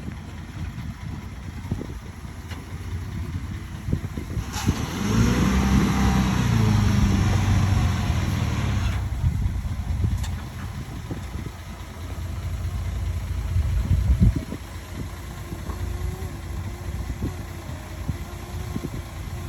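Diesel engine of heavy earthmoving machinery running. From about four seconds in, it revs up under load over a rushing noise for several seconds, then settles back to a lower, steady run.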